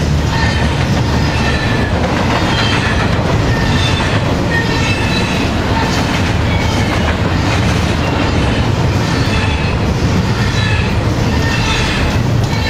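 Train cars rolling steadily past on the track, with a continuous rumble and short high wheel squeaks recurring about once a second.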